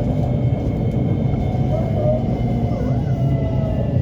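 Lahore Orange Line metro train running between stations, heard from inside the carriage: a steady low rumble with a faint, steady high whine.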